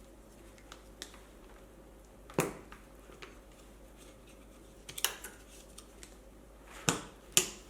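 Tyre levers prying a tyre bead over the rim of an electric unicycle wheel: scattered sharp clicks and snaps, the loudest about two and a half, five and seven seconds in, with a pair close together near the end.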